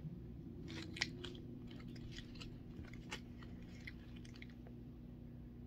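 A child chewing gummy candy: faint, irregular mouth clicks.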